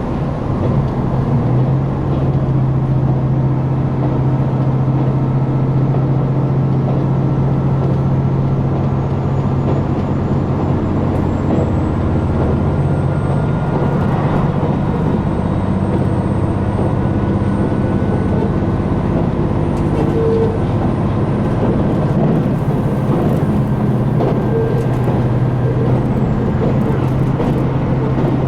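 Diesel engine of a KiHa 261 series railcar under power, heard from inside the car: a steady low engine note that settles in about a second in and holds, with a faint high whine slowly rising as the train accelerates.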